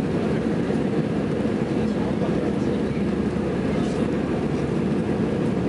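Steady low rumble of an airliner cabin in flight, with engine and air noise holding at an even level.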